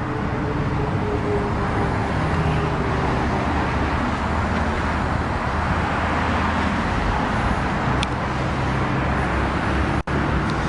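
Lamborghini Gallardo's 5.2-litre V10 idling steadily, a constant low hum under a broad rushing noise, with a brief break near the end.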